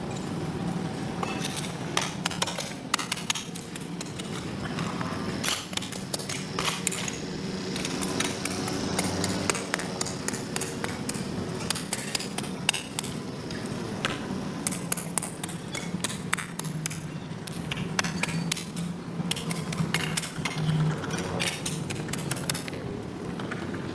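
Hand tools knocking and scraping on a hard surface: many irregular clinks and knocks, over a steady low hum.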